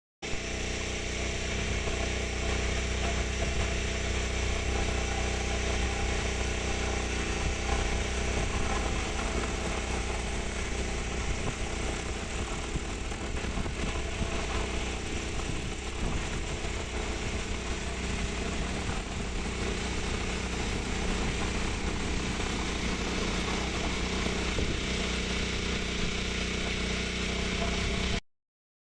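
Rotors of a large DJI fertilizer-spreading agricultural drone, a steady multi-pitched drone, with strong wind noise.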